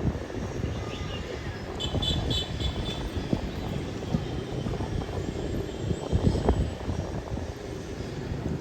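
Steady low outdoor rumble, with a brief run of short high chirps about two seconds in.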